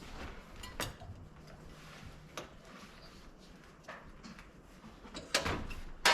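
Scattered knocks and clunks from work on a Jeep, five in all, the loudest two near the end.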